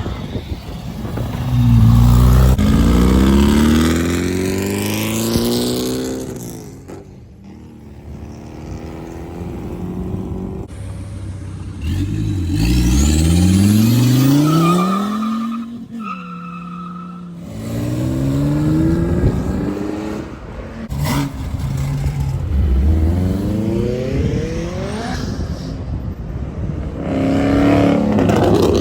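Supercar exhausts accelerating hard, the engine note climbing steeply in pitch again and again. The sound changes abruptly every few seconds between separate cars.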